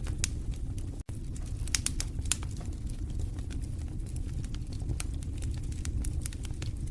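Wood fire burning in a fireplace: irregular crackles and pops over a steady low rumble of the flames, with a brief cut-out about a second in.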